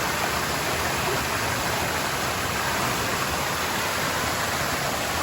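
Steady rush of a waterfall pouring into a pool, an even hiss with no breaks.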